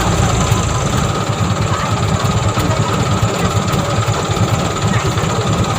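Truck engine running steadily, with no revving.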